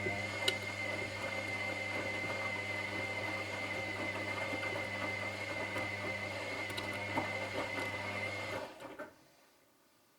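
Washing machine motor turning the drum: a steady hum with a thin high whine over it, a few light clicks, stopping about nine seconds in.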